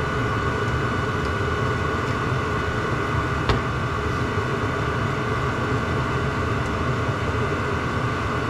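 Diesel parking heater running steadily: an even rush with a constant whine over a low rumble. One sharp click about three and a half seconds in.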